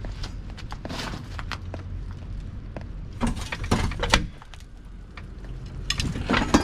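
Metal clanks, clicks and scraping as hand tools work under the truck to free the last brake line from the rear axle of a 1999 GMC Yukon. There are two louder bursts of clatter, about three seconds in and again near the end, over a steady low hum.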